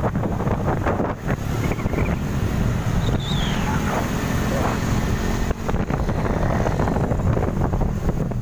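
Loaded sugarcane truck driving, its engine running steadily under heavy wind buffeting on the microphone.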